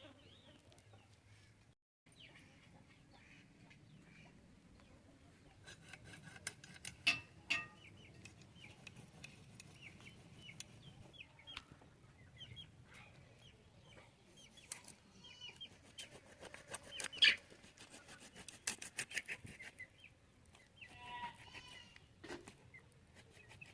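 Chickens clucking with short, repeated calls. A few sharp clicks or knocks come through, the loudest about 7 and 17 seconds in.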